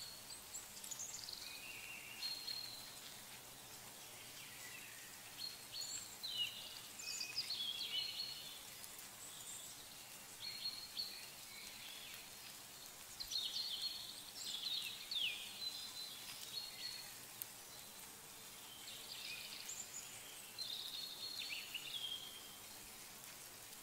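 Birds calling and singing outdoors: short phrases of varied chirps, down-slurred whistles and trills coming and going throughout, over a steady low hiss of ambient noise.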